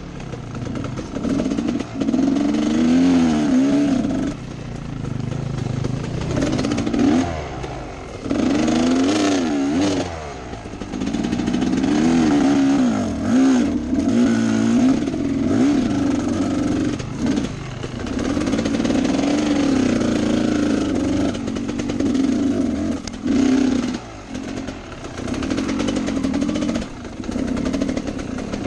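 Enduro motorcycle engine revving up and falling back over and over as the throttle opens and closes, with short drops in level between pulls.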